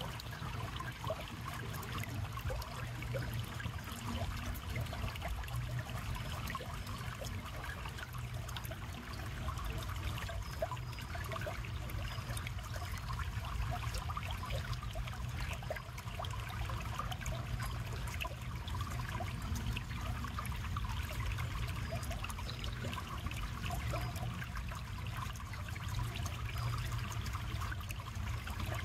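River water flowing steadily, with a dense patter of small splashes over a low rumble.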